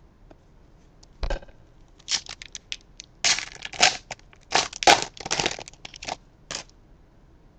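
A trading card pack wrapper being torn open and crinkled, in a series of short crinkly bursts over several seconds.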